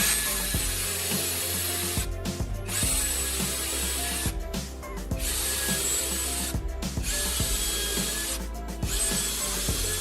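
A power tool working wood in five runs of about a second and a half each, with short pauses between them, over steady background music.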